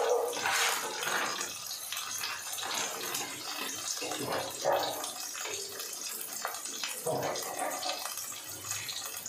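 Steady sizzling hiss of onions and green chillies frying in a pan on a gas stove. Near the start, dry rice rustles as it pours into a steel bowl.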